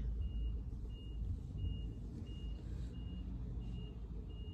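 Truck's reversing alarm beeping at an even pace, about three beeps every two seconds, over the low rumble of its engine and street traffic.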